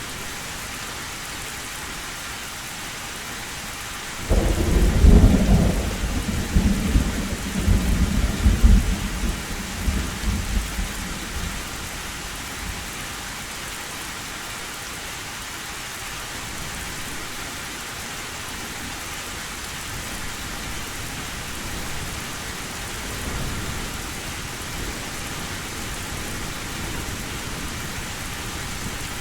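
Heavy rain hissing steadily on a tin roof. About four seconds in a sudden thunderclap breaks and rolls on in rumbles for several seconds before fading, and a fainter rumble of thunder comes later.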